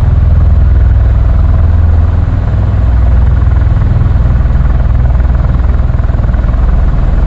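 Marine Corps V-22 Osprey tiltrotors running on the ground, a loud, steady, low rotor thrum with a fast pulsing beat.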